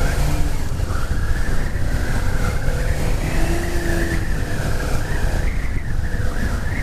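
Motorcycle riding along a street, its engine running under heavy wind rumble, with a wavering high whine over it.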